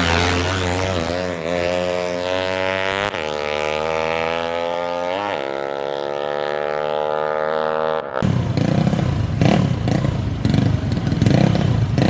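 DOHC racing motorcycle engines revving at high rpm, the pitch climbing steadily as the bike pulls through the revs. The sound is in cut-together stretches, with two abrupt changes. The last part is rougher and more irregular, with repeated blips of the throttle.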